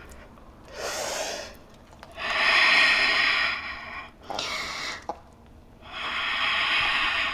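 A person's deep, audible breathing during a yoga vinyasa: a short breath followed by a long, louder one, twice over.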